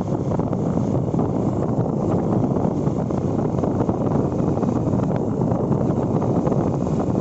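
Steady wind rushing over the microphone of a motorcycle under way, with road and engine noise underneath.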